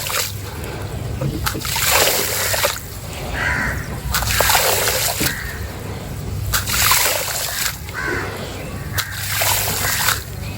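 Water poured in repeated splashing pours onto a sand-and-cement mix, one pour about every two and a half seconds.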